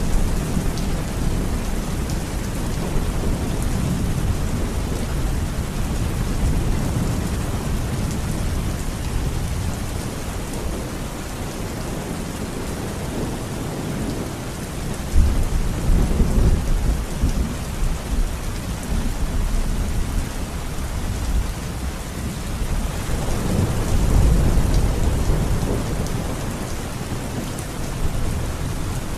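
Heavy rain falling steadily, with thunder rumbling several times: a sudden loud clap about halfway through and a long rolling rumble near the end.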